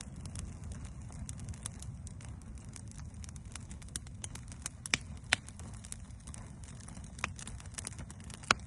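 Wood campfire crackling and popping as it is stoked with thin green branches, many small snaps with a few sharp pops standing out about five seconds in and near the end, over a low steady rumble.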